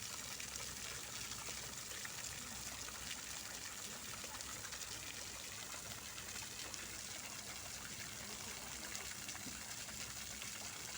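Fountain water splashing and falling steadily, an even rushing hiss with no break.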